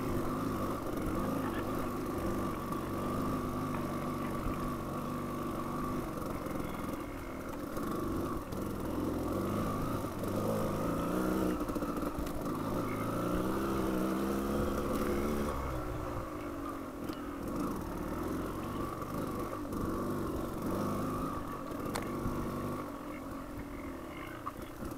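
Dual-sport motorcycle engine running as the bike is ridden along a dirt trail, the revs rising and falling with the throttle; past the middle the revs climb for a few seconds, then drop off sharply.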